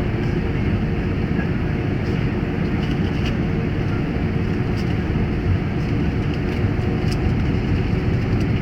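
Steady cabin noise of a Boeing 747 airliner: engine drone and rushing air heard from inside the passenger cabin, with a few faint ticks.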